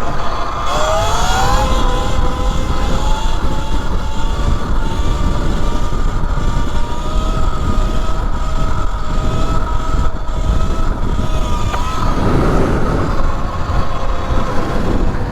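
Electric dirt bike (E Ride Pro SS 3.0) under way: a high motor whine that rises in pitch as it accelerates about a second in, then holds and creeps slowly higher. Heavy wind rumble on the microphone sits underneath it.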